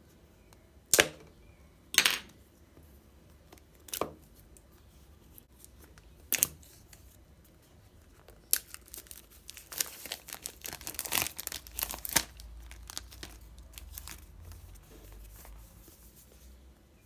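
Packaging being torn open and crinkled: a few separate sharp rips, then a longer stretch of rapid crackling and crinkling that dies away about three-quarters of the way through.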